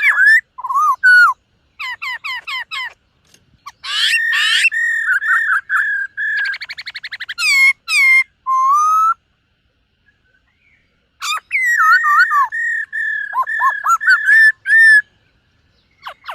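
Black-throated laughingthrush singing: loud, clear whistled phrases of quick rising and falling notes and a rapid trill. There is a pause of about two seconds past the middle.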